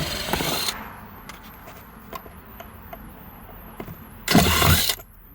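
Handling noises: a sharp knock with a short scraping rustle, then small ticks, then a louder scraping rustle lasting under a second, about four seconds in.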